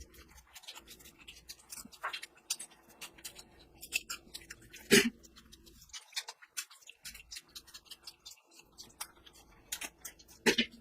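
Close-miked eating sounds from a meal of curry and rice: a run of small sharp clicks and smacks of chewing and handling food. There is a louder one about halfway through and another near the end.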